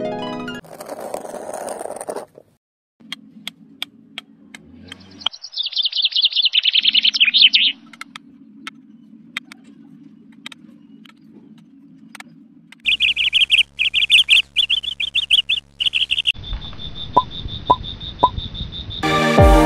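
Birds chirping in quick high trills, one trill falling in pitch, over a low steady hum and scattered clicks. Music comes in just before the end.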